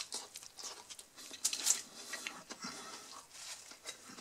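A person chewing a mouthful of burger: irregular soft wet clicks and crackles, with a rustle of the paper wrapper as the burger is set down on it.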